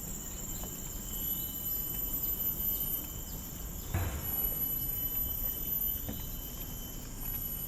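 Insects droning steadily at several high pitches in forest. A few soft footstep thuds on the trail come through underneath, the clearest about four seconds in.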